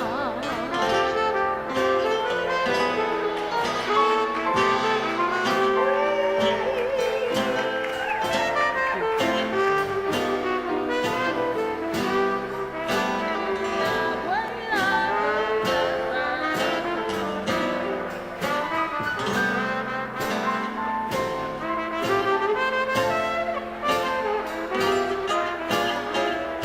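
Jazz dance orchestra playing 1920s–30s style music, with brass and saxophones carrying the tune.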